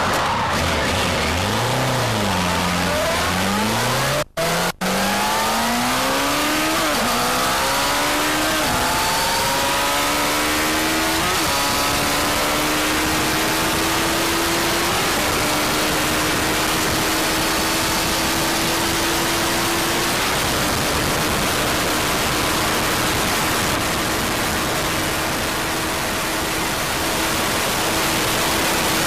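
Motorcycle engine accelerating hard through the gears, its pitch climbing with each gear and dropping back at each upshift, then held at a high, slowly rising pitch at top speed. Heavy wind rush on the microphone runs throughout, and the sound cuts out twice briefly about four seconds in.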